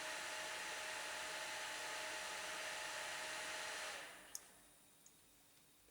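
Computer cooling fans running with a steady whoosh and faint hum, then spinning down and stopping about four seconds in as the Pentium 4 test setup is switched off. A single short click follows shortly after.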